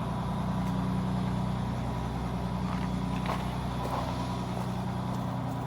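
A large vehicle's engine idling steadily, an even low hum.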